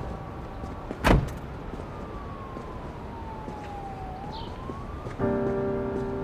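Police siren wailing slowly, its pitch sliding down and then back up. A single loud thump comes about a second in, and music with held notes starts near the end.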